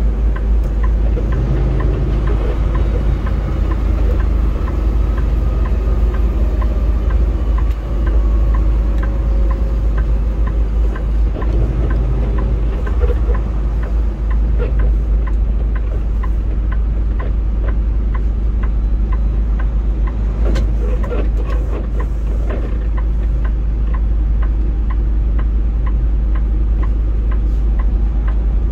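Steady engine and road drone inside a semi-truck cab while driving. A faint whine falls slowly in pitch over roughly the first ten seconds. A regular light ticking, about twice a second, sets in about halfway through.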